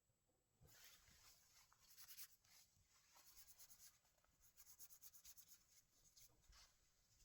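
Very faint scratching and rustling, in quick irregular runs of small ticks.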